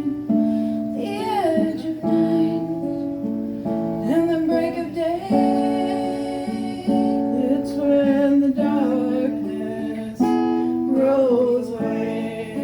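Acoustic guitar strummed through the chords of a folk song, with a voice singing a melody over it.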